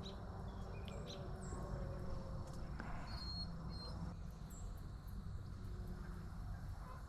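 Quiet outdoor marsh ambience: a steady low rumble with faint high chirps about every three seconds.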